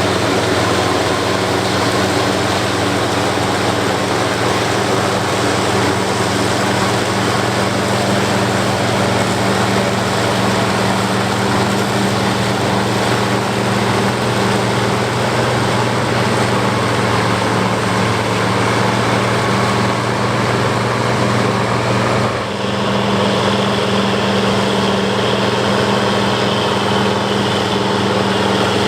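International 1086 tractor's diesel engine running steadily under load while a New Holland FP240 forage harvester chops corn, a steady engine hum under a broad rush of chopping noise. A brief dip comes about three-quarters of the way through, after which the engine note sits slightly differently.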